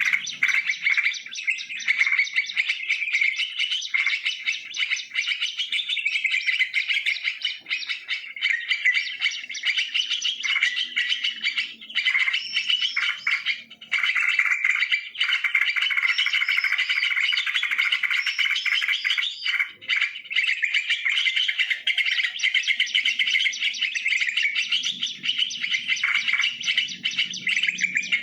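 Yellow-vented bulbuls (trucukan) calling and chattering without a break, many short bubbly notes running into one another.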